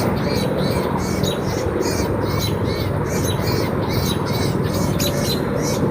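A bird chirping over and over, short high calls about three a second, over a steady background rumble.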